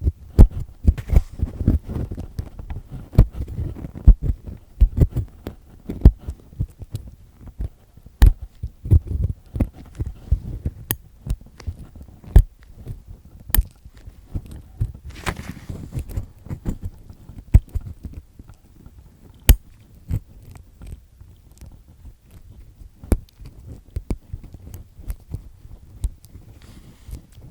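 Close-miked ear pick with a black triple-disc tip scraping inside an ear: a dense, irregular run of scratchy rasps and sharp clicks with dull low thuds.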